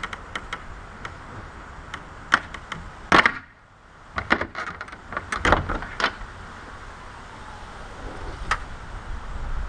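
Scattered clicks and knocks of parts and tools being handled in a car's engine bay, with a sharp knock about three seconds in and a cluster of knocks around the middle.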